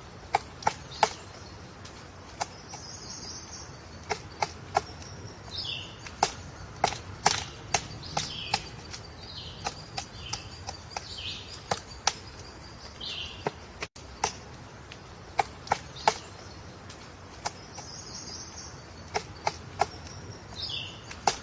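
Woodpecker tapping on wood: single sharp knocks at irregular intervals, sometimes two or three close together. Short high bird calls that drop in pitch come in between.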